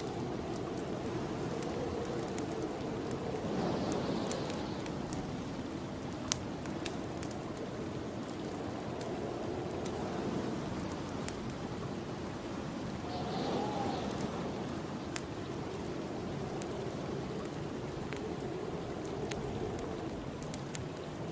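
Snowstorm wind blowing steadily in slow gusts, over a wood fire crackling with scattered sharp pops, one louder pop about six seconds in.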